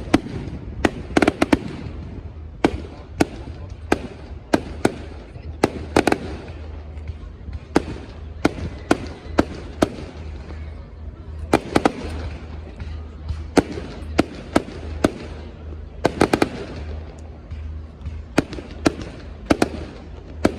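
Fireworks display going off: a rapid, irregular run of sharp bangs, often several in quick succession, over a steady low rumble.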